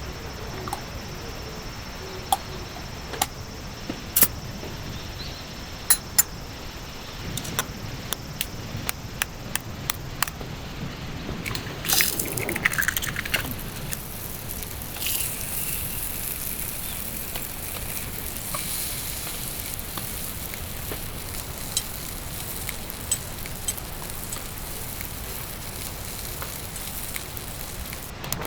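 Steady rain falling, with scattered sharp taps of drops, and a louder hiss from about halfway through.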